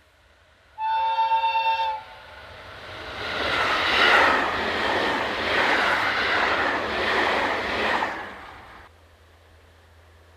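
A diesel locomotive's horn sounds one short steady blast, then the diesel freight train passes close by: a loud rush and rumble of locomotives and wagons that builds up and then cuts off abruptly near the end.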